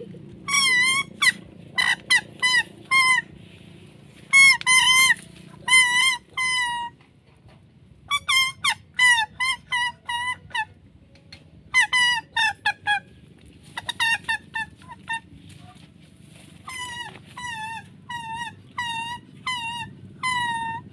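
Domestic fowl calling: short, high, pitch-bending notes in quick runs of three to six, repeated over and over. A faint low hum underneath fades about seven seconds in.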